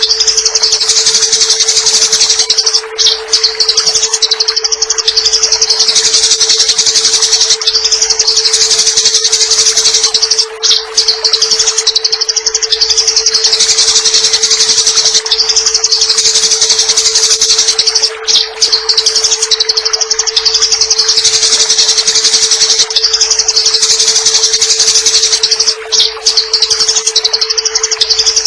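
Eurasian tree sparrows giving rapid, high-pitched fighting chatter without pause, a looped recording that breaks briefly and starts over about every seven and a half seconds. A steady low tone runs underneath.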